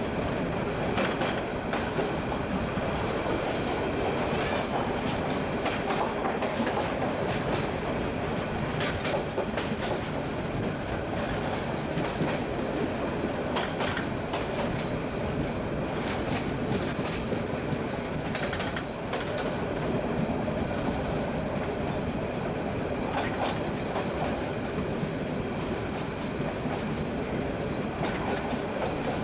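Moving commuter train heard from an open carriage window: a steady rumble of the wheels on the track, with irregular sharp clacks.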